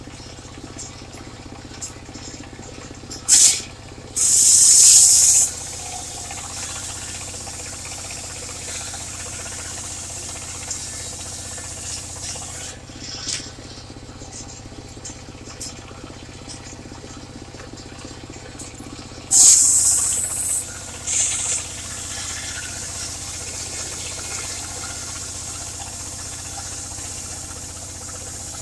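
Engine of a portable circular sawmill running steadily, with loud short bursts of high hissing noise about four seconds in and again near twenty seconds in.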